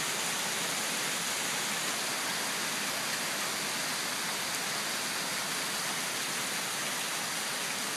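Heavy downpour: torrential rain coming down in sheets, a steady, even hiss with no letup.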